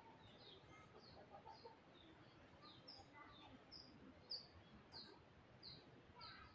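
Faint bird chirping: short, high chirps repeating every half second or so over a low background hiss.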